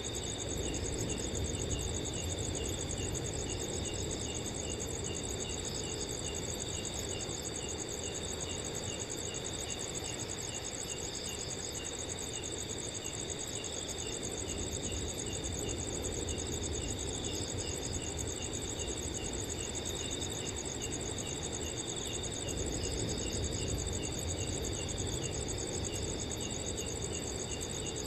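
Several crickets calling at once at different pitches: a steady high trill and a lower cricket chirping regularly about twice a second, all running unbroken. Under them, a soft low wind rush swells and eases a few times.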